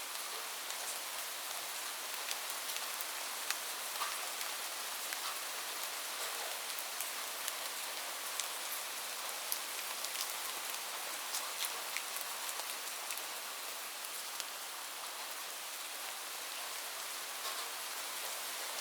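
Steady rainfall making an even hiss, with individual drops ticking sharply and irregularly over it.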